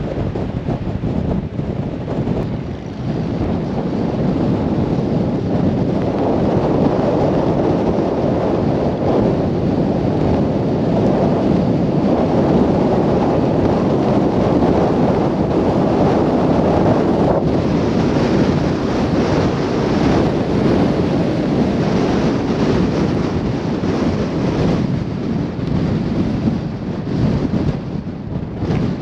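Blizzard wind gusting hard across the microphone, a loud rush that swells a few seconds in and grows hissier in the second half.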